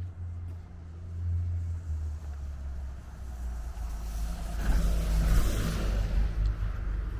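Car passing on a city street: a low engine rumble with tyre and road noise that swells to a peak about five seconds in and then eases off.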